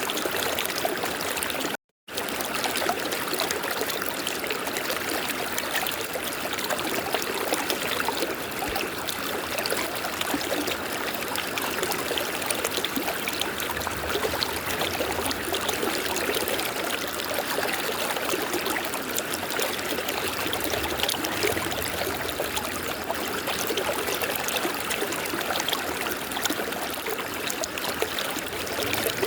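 River water flowing steadily. The sound cuts out completely for a split second about two seconds in.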